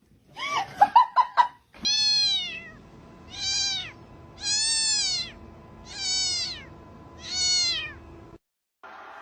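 A short burst of laughter, then a cat meowing five times, each meow rising and falling in pitch, roughly a second or more apart.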